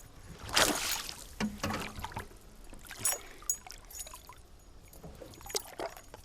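Water splashing and sloshing against a small boat, with scattered knocks and clicks. The loudest splash comes about half a second in.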